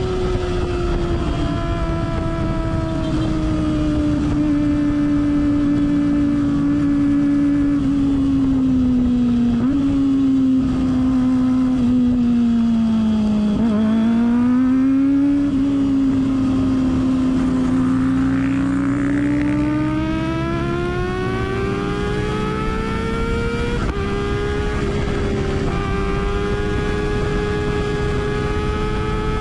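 Kawasaki ZX25R's high-revving inline-four engine running through a Yoshimura R77-style exhaust while the bike is ridden. The exhaust note drops gradually in pitch for the first half as the revs fall, then climbs back up and holds steady near the end.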